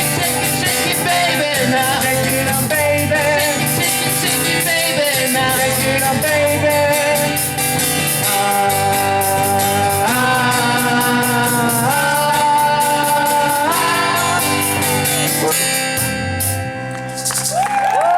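Live rock band playing and singing, with guitar and drums; held vocal notes step up in pitch three times in the second half, and the song comes down onto a final chord near the end.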